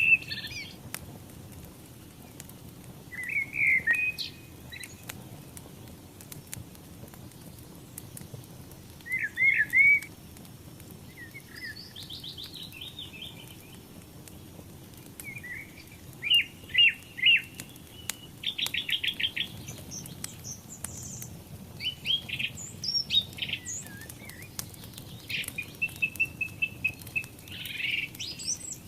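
Songbirds calling and singing in short chirps, rapid trills and warbled phrases, repeated every few seconds and busier in the second half. Beneath them runs a steady low hiss with faint scattered crackles, typical of a wood fire burning.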